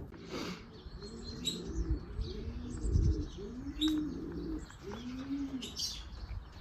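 Racing pigeons cooing: a run of drawn-out coos that rise and fall in pitch, with short high bird chirps scattered over them.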